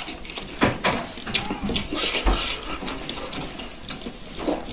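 A person chewing smoked pork feet and rice with wet, smacking mouth sounds, a run of irregular sharp clicks and smacks, while fingers pick at the food on the plate.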